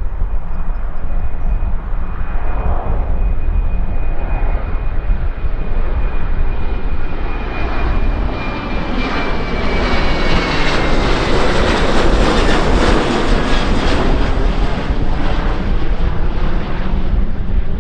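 Passenger airliner's engines passing, with a high thin whine that glides slowly down in pitch as the engine noise swells to its loudest in the second half. A steady low rumble runs underneath.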